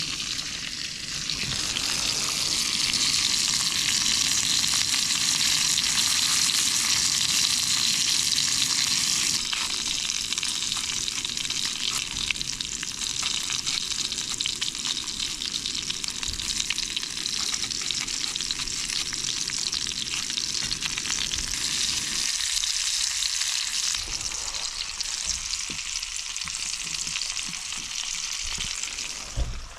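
Lamb chops sizzling in a hot pan: a steady frying hiss, loudest in the first several seconds and easing slightly after. The sizzle falls away sharply just before the end, with a brief thump.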